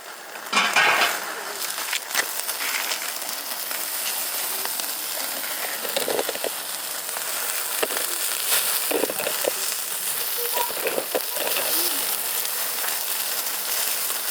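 Meat sizzling on a grill over a wood fire: a steady frying hiss with scattered crackles, and a louder burst of sizzling about a second in.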